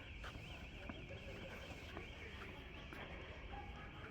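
Faint electronic alarm warbling, its pitch sweeping up and down several times a second and fading out about two seconds in, over a low background rumble.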